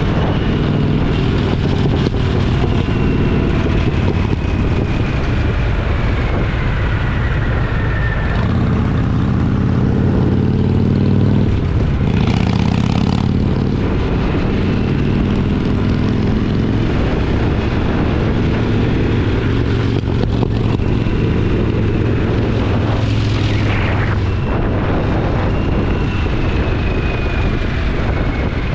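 Twin-cylinder motorcycle engine running on the road, its note dipping and rising again about a third of the way in as the rider shifts and gets back on the throttle, with wind rushing past.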